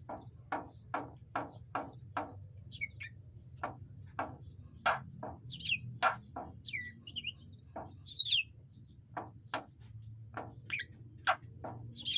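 Javan myna calling: a quick run of sharp chip notes, about two a second, then scattered chips mixed with short falling whistles.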